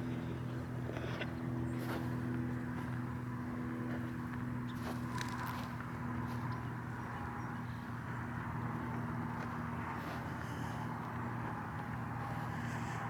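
A steady, even engine hum from a vehicle, with a few faint light knocks over it.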